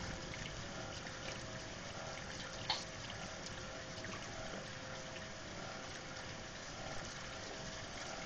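Steady rain with water pouring and trickling off the roof during a thunderstorm, plus one brief tick about two and a half seconds in.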